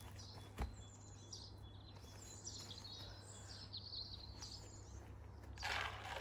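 Wild garden birds chirping and singing, many short high calls and trills overlapping. A single sharp knock about half a second in and a brief rustle near the end, likely from handling the feeders.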